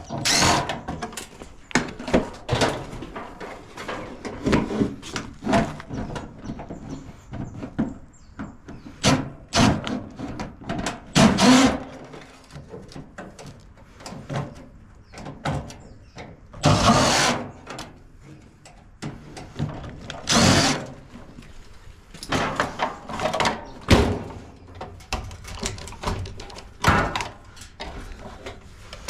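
Irregular knocks, clanks and scrapes of a dishwasher being taken apart by hand, its steel and plastic parts handled and pulled loose, with a few longer scraping rattles.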